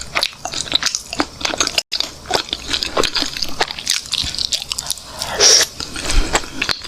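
Close-miked biting and chewing of chicken: crunchy bites and wet chewing clicks in quick irregular succession, with a louder crunch about five and a half seconds in.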